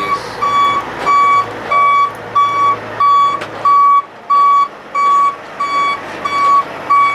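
Vehicle reversing alarm beeping steadily, a single pitched beep repeated about every 0.6 seconds, over the low running of an engine that drops away about four seconds in.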